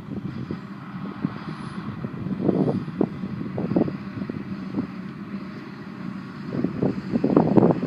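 Tractor and silage machinery engines running in the field, a low steady hum with uneven louder surges, the strongest near the end.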